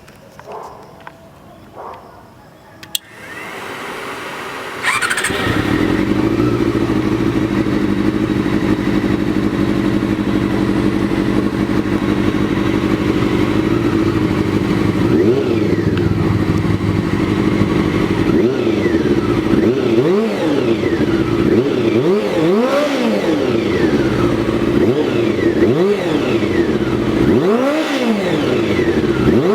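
Honda CBR400RR NC23's inline-four engine started on the electric starter, catching about five seconds in and then idling steadily. From about halfway it is revved in a series of short throttle blips, each rising and falling in pitch.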